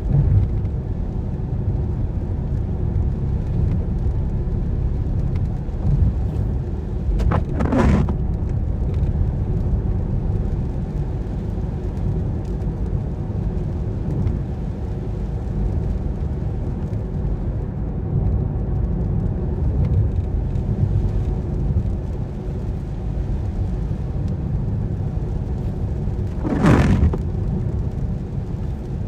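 Car driving on wet roads, a steady low rumble of engine and tyres. Brief swishes come about a quarter of the way in and again near the end.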